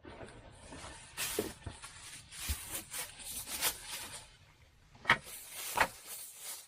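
Rummaging through a backpack: packaging and gear rustling, with a few sharp knocks and clicks as items are handled.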